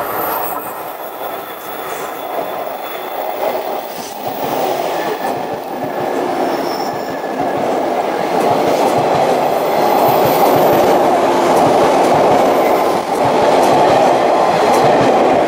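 JR 185 series electric train running past along the platform: steady rolling noise of wheels on rails, getting louder about halfway through as the cars go by.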